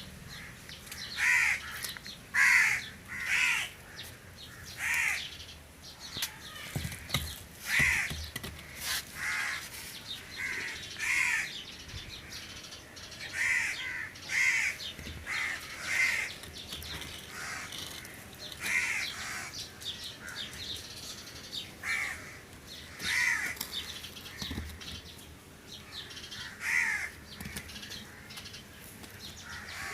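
Crows cawing over and over, short harsh calls coming about once or twice a second, with a couple of dull low knocks mixed in.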